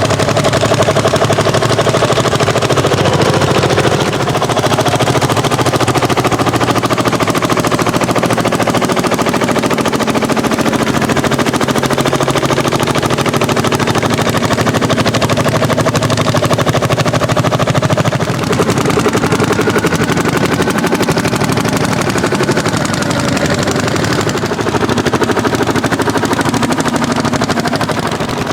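Old single-cylinder hot-bulb tractor engine running with a fast, even popping exhaust beat, the note shifting slightly about two-thirds of the way through.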